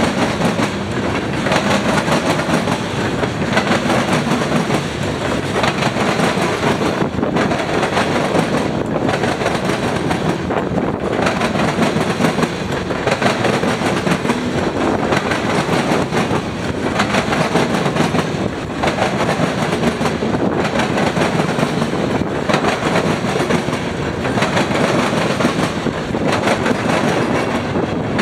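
Freight train cars rolling past loudly, their wheels clattering over the rail joints in a steady repeating rhythm.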